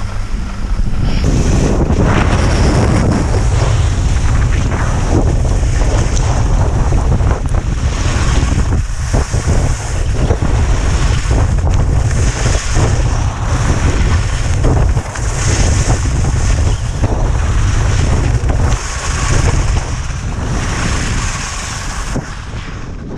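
Heavy wind buffeting on the microphone of a camera moving downhill on skis, with a hiss that swells every two to three seconds.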